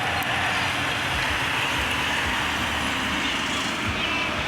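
A truck's engine running steadily, heard as an even, continuous rumble and rush.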